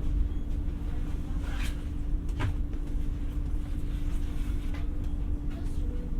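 Interior running noise of an X60 (Alstom Coradia Nordic) electric commuter train: a steady low rumble under a constant hum, with a few short knocks and rattles about two seconds in.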